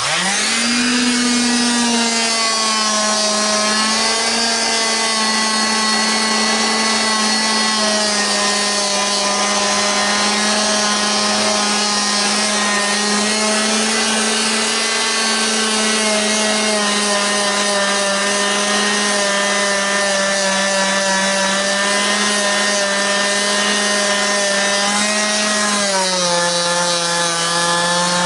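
Electric vibrating sander starting up and running steadily against a freshly packed cement patch, vibrating the wet cement to settle it and bring up air bubbles. The motor hums at one steady pitch, which drops slightly near the end.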